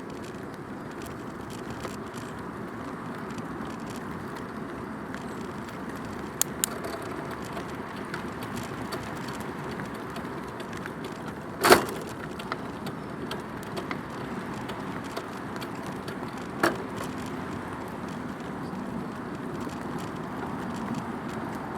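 Bicycle rolling along a path, heard from a recorder mounted on the bike: a steady tyre and riding noise with light clicks. A sharp knock from a bump jolts the bike about halfway through, and a smaller one comes near the end.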